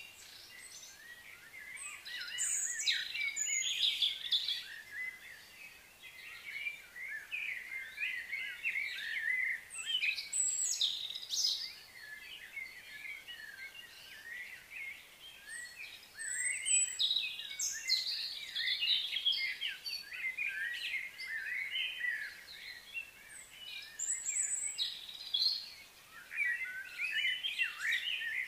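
Outdoor birds chirping and singing: many short calls and quick pitch glides in busy bursts, with short lulls between them.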